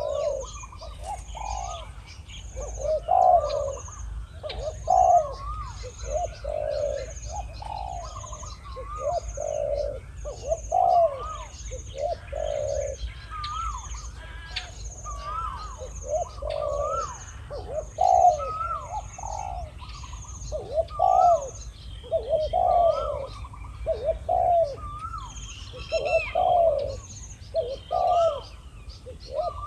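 Spotted doves cooing over and over, their coo phrases coming every second or two and at times overlapping as two birds call back and forth. A high, even chirping ticks along about twice a second behind them.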